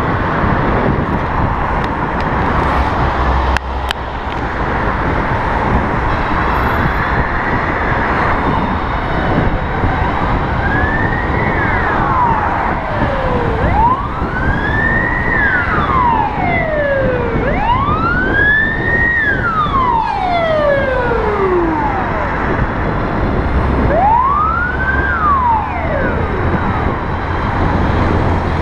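Emergency-vehicle siren wailing, rising and falling about every four seconds, that becomes clear over the first several seconds. Under it, steady wind and road noise from riding the electric bike.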